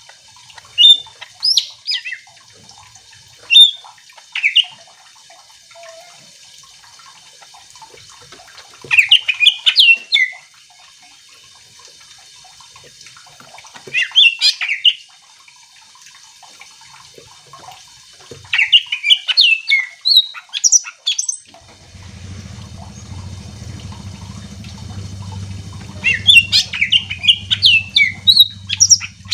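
Cucak ijo (green leafbird) singing: loud bursts of rapid, varied high whistles and chattering phrases every few seconds. About two-thirds of the way through, a low steady hum starts underneath and carries on.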